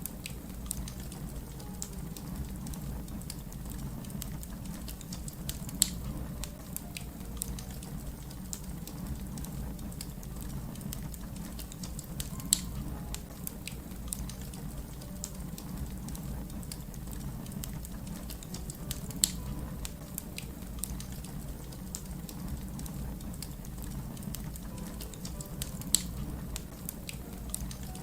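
Wood fire crackling: many small snaps and clicks over a steady low rumble, with four louder pops evenly spaced about every seven seconds.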